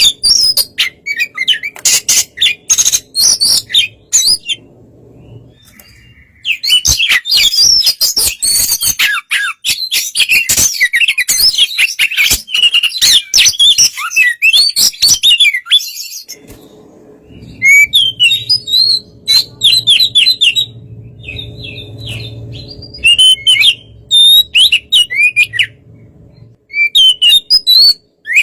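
Oriental magpie-robin (kacer) singing: long bouts of rapid, varied whistles and chirps that slide in pitch, broken twice by short pauses.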